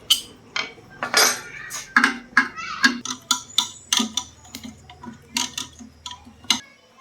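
Irregular sharp metallic clinks and taps, about two to three a second, from hand work on the metal parts of a sump pump's motor.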